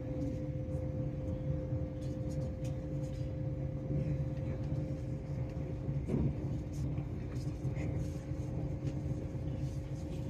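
Great Western Railway Class 800 train running at speed, heard from inside the carriage: a steady low rumble with a constant two-tone hum over it.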